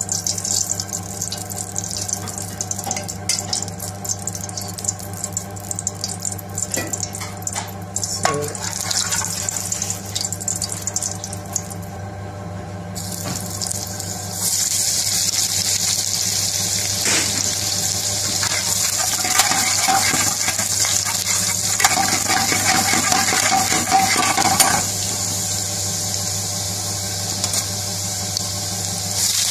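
Cooking oil in a wok on a gas burner, crackling faintly at first. About fifteen seconds in it breaks into a steady sizzle as chopped garlic and green chillies fry, with a metal spoon stirring. A steady low hum runs underneath.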